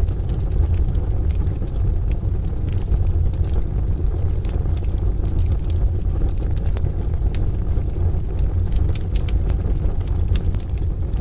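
Wood fire crackling in a stove, with frequent small sharp pops and snaps over a steady low rumble.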